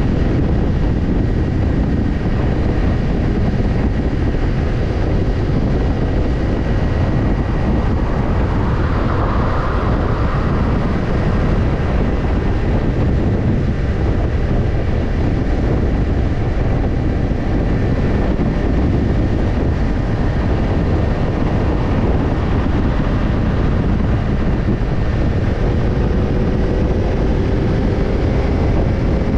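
Kawasaki Ninja 250's parallel-twin engine running through a BEET NASSERT Evolution Type II titanium slip-on muffler while riding at a steady pace, mixed with wind rush on the microphone. Near the end the engine note rises slightly.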